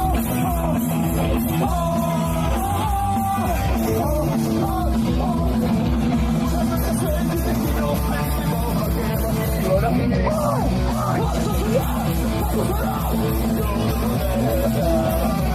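Live punk rock band playing loud and fast, with distorted guitars, bass and a steady pounding drum beat under a shouted vocal line.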